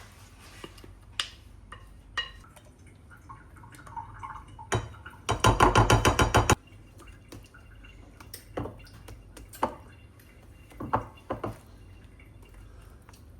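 Kitchen work sounds: scattered knocks and clinks of utensils and dishes, with a loud run of rapid strokes, about nine a second, lasting just over a second near the middle.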